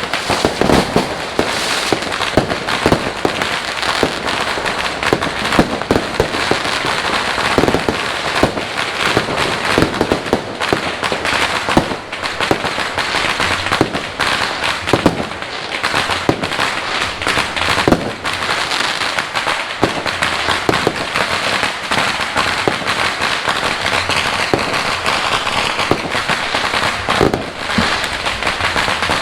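Fireworks and firecrackers going off continuously: a dense, unbroken crackle with many sharp bangs layered over it.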